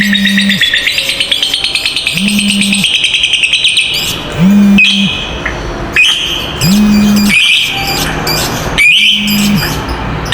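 Lovebirds giving a long, rapid chattering trill (the 'ngekek panjang' prized by keepers), breaking into sharper, shrill single calls from about four seconds in. A low hum sounds on and off beneath it about every two seconds.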